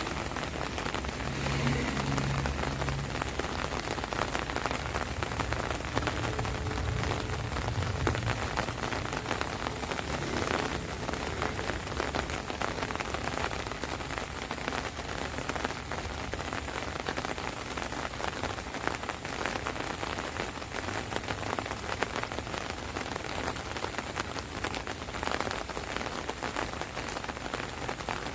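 Rain falling on an umbrella overhead: a dense, steady patter of many fine drops. A low rumble sits underneath during the first eight seconds or so.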